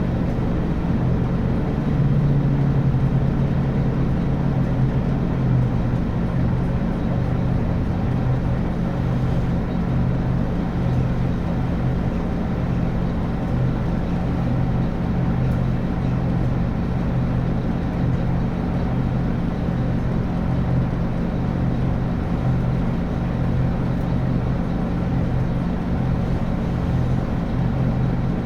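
Scania N280UB city bus's 9-litre five-cylinder diesel engine running with a steady low drone, its pitch holding level rather than revving up or down.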